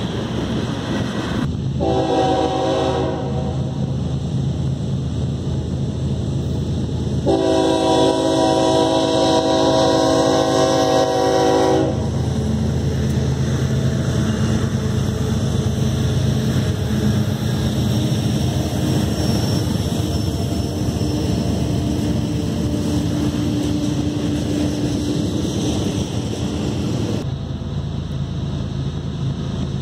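Freight train passing with a steady rumble of diesel locomotives and rolling cars. The locomotive's multi-chime air horn sounds a short blast about two seconds in and a longer one from about seven to twelve seconds. The rumble drops away near the end.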